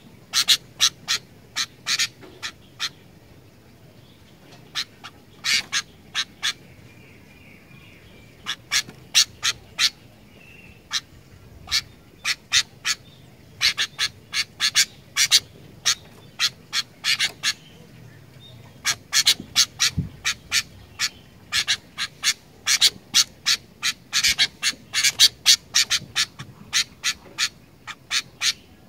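Sooty-headed bulbul (kutilang) calling: short, sharp chirps in quick runs separated by short pauses, coming thickest in the second half.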